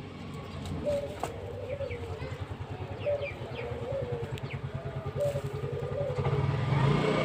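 Pigeons cooing in repeated rising-and-falling calls, over a small engine running with a fast, even pulse that gets louder near the end.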